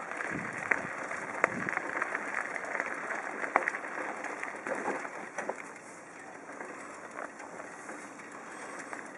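Bicycle being ridden over a rough road, with steady rolling noise and irregular rattles and clicks from the bike, whose chain and seat are loose. The rattling is busiest in the first half and eases off about halfway through.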